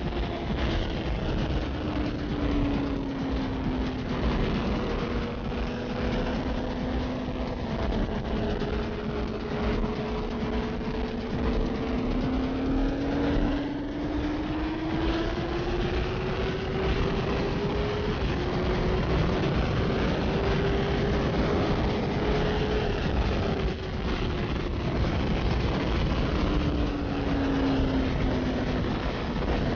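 Sport motorcycle engine running at speed under heavy wind rush, its note rising and falling slowly, with a couple of sudden drops in pitch.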